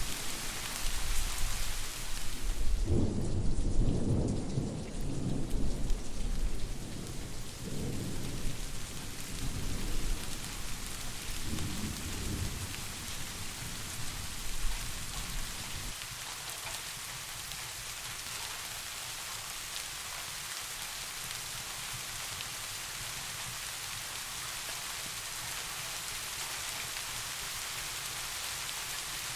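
Steady rain with a long rolling rumble of distant thunder that swells several times, loudest a few seconds in, and dies away a little past halfway, leaving only the rain.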